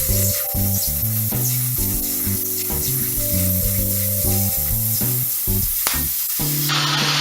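Arc of a 100 V semi-automatic (MIG) welder laying a weld, a steady hiss with background music underneath. Near the end the hiss turns broader and rougher.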